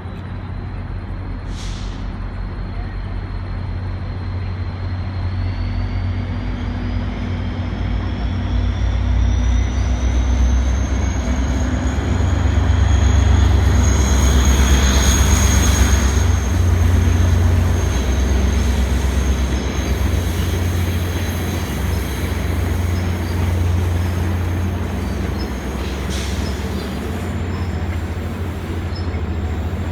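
Diesel-hauled passenger train passing close by. The engine's low drone builds to a peak about halfway through and then eases off, with a thin high-pitched whine slowly rising in pitch above it.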